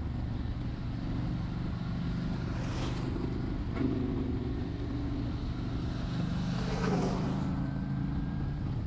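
Honda Shadow 750 V-twin engine running steadily at cruising speed under a haze of road and rain noise. Twice, about three seconds in and again near seven seconds, a short whoosh falls in pitch.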